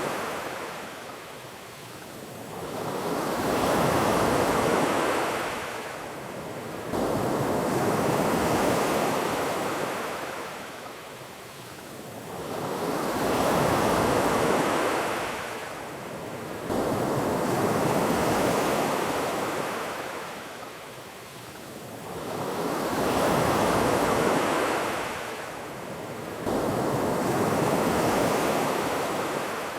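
Ocean waves breaking and washing up a beach, surging and fading in a slow rhythm about every five seconds.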